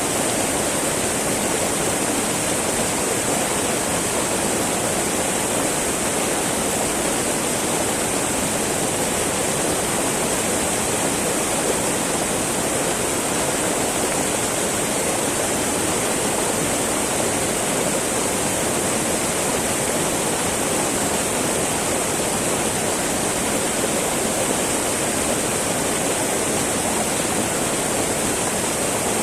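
Small mountain river babbling and flowing over rocks, a steady rush of water.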